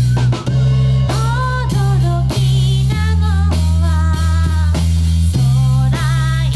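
Live rock band playing: a sung melody line over electric guitar, a heavy steady bass and a drum kit.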